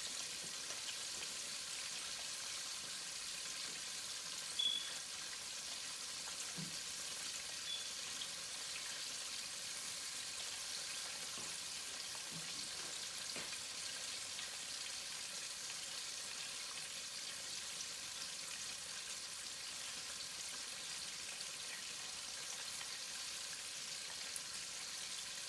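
Chicken wings deep frying in hot oil: a steady, even sizzle with faint crackles, and one brief sharper sound about four and a half seconds in.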